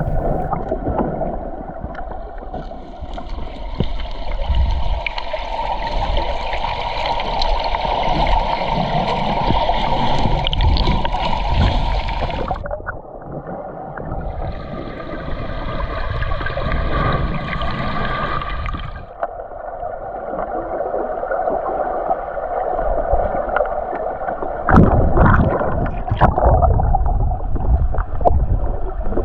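Flowing river water gurgling and splashing close to the microphone, with a continuous rumble. The brighter hiss cuts off abruptly about 12 s in and again near 19 s, and there are a few heavier knocks near the end.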